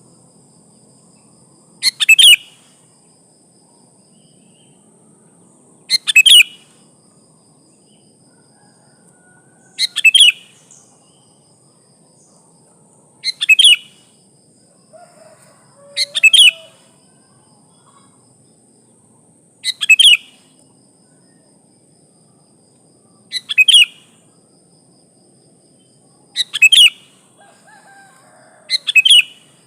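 Female sooty-headed bulbul calling: short, sharp double-note calls repeated about every three to four seconds, nine in all, the call a female gives to draw males. A faint steady high hiss runs underneath.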